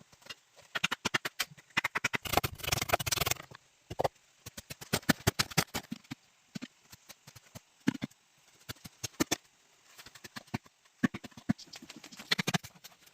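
Irregular sharp knocks and clatter, with a dense run of crackling knocks about two seconds in.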